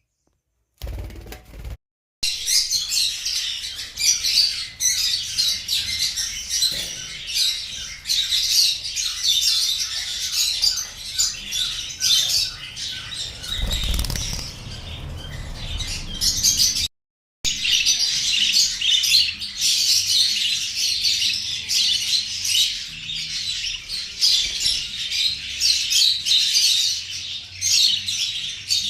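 A large flock of small birds chattering, many chirping at once in a dense, continuous din. It breaks off abruptly to silence near the start and again about two-thirds of the way through. A brief low rumble comes about halfway.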